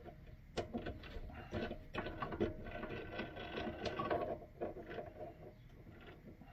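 Irregular metal clicks and clinks with short ringing tones as a piece of steel is chucked up in a metal lathe's chuck.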